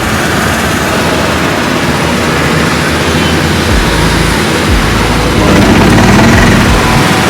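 Loud, steady engine noise from race cars at speed, swelling about five seconds in.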